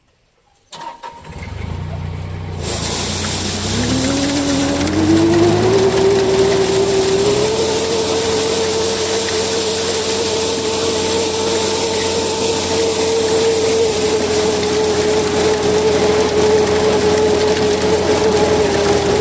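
Mitsubishi combine harvester starting up: the engine catches about a second in, and a hiss of machinery joins a couple of seconds later. A whine then rises over several seconds to a steady high pitch as the machinery spins up, and runs on steadily.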